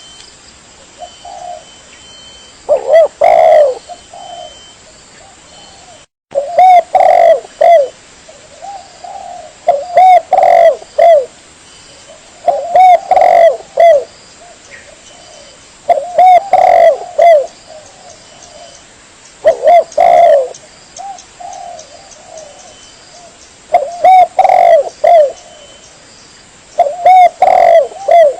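Spotted dove (tekukur) cooing: a loud phrase of several arched coo notes repeated about every three seconds, with quieter coos between the phrases.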